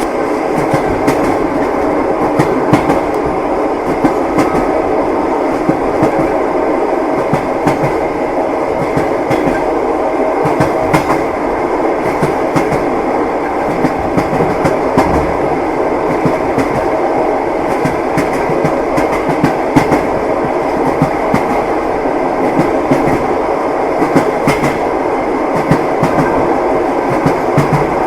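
Passenger train carriage running along the rails: a steady rumble with frequent clacks of the wheels over the rail joints.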